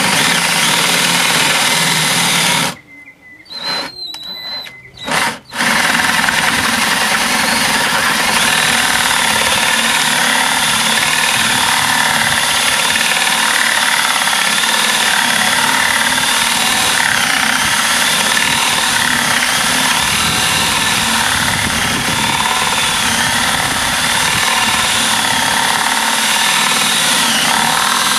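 Cordless power drill with a 2-inch hole saw boring the entrance hole through the wooden birdhouse front. It runs steadily under load, stops about three seconds in, gives a couple of short bursts, then runs on steadily again.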